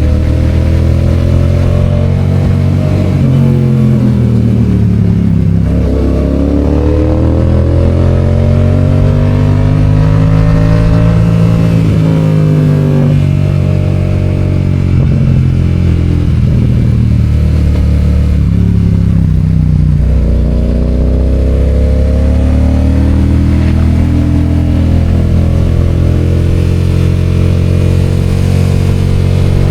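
Yamaha FZ-07's parallel-twin engine running under a rider on the road, its revs falling and climbing several times as it accelerates and eases off.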